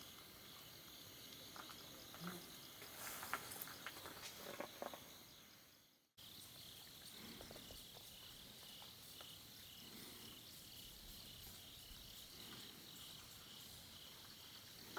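Insects chirring steadily in a high, even pulsing rhythm, with a few sharp clicks and rustles close by in the first few seconds. The sound drops out briefly about six seconds in, then the chirring carries on.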